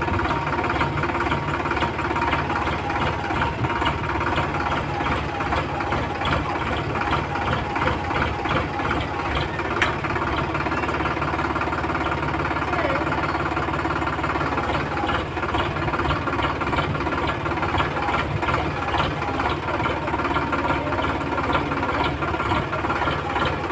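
Tractor engine running steadily, with a single sharp click about ten seconds in.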